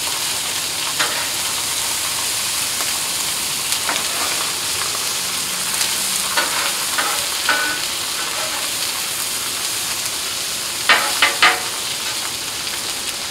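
Pork chops and diced Spam, red bell pepper and onion frying in oil on a hot Blackstone flat-top steel griddle, with a steady sizzle. A metal spatula scrapes and clacks on the griddle plate now and then, with three sharp clacks in quick succession near the end.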